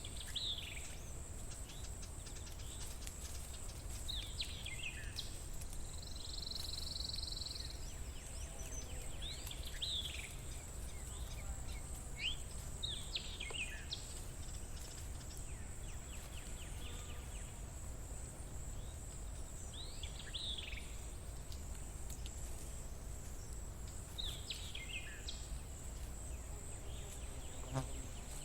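Nature ambience: a steady high-pitched insect drone, with a bird giving short downward-sweeping calls every few seconds and a brief buzzy note about six seconds in, over a low steady rumble.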